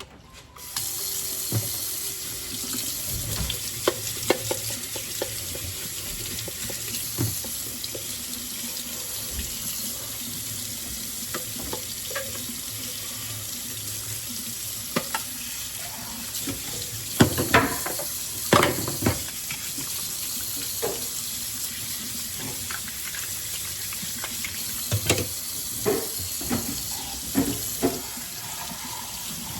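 Kitchen tap running steadily, turned on about a second in, with occasional knocks and clunks of something being handled under it in the sink.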